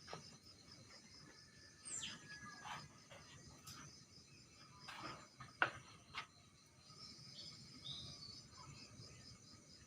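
Steady, faint pulsing chirr of crickets, with a few brief bird calls and scattered sharp clicks, the loudest a snap a little over halfway through.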